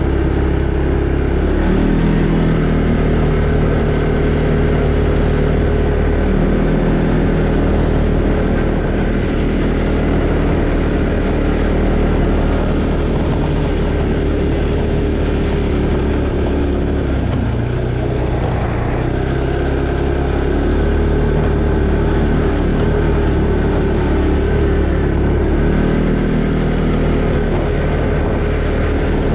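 Arctic Cat Alterra 700 ATV's single-cylinder engine running while riding, its note stepping up and down with the throttle and dropping briefly a little past the middle before picking up again.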